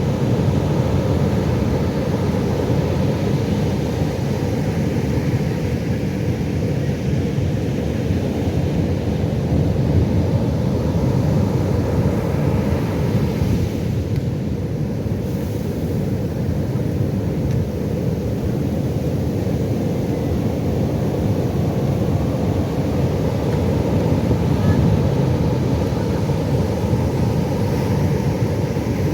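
Ocean surf: a steady low wash of breaking waves that swells and eases slowly.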